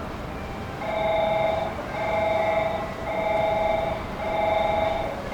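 Electronic platform warning tone repeating about once a second, each two-note buzz lasting most of a second with a short gap, starting about a second in: the signal that a train is approaching the platform.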